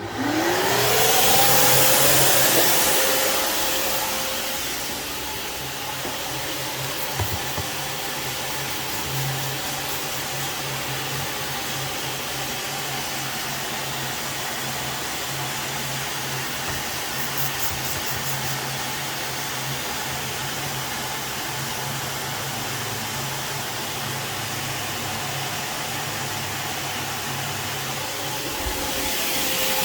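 A machine starts up, its whine rising over about two seconds, then runs steadily with a hissing rush and a low hum.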